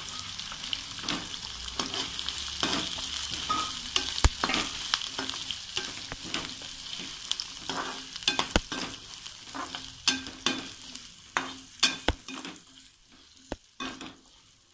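Sliced onions and whole garlic cloves sizzling in oil in a kadai while a perforated steel spatula stirs them, with many sharp clicks as it scrapes and knocks the pan. The sizzle dies down over the last couple of seconds, leaving a few separate clicks.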